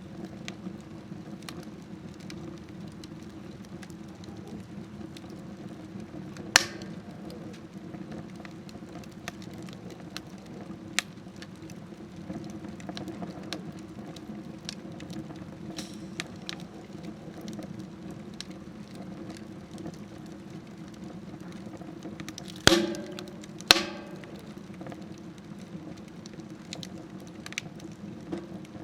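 Wood fire burning in a small smokeless wood stove: a steady low rush of flame with scattered crackles and a few loud pops, two of them close together near the end.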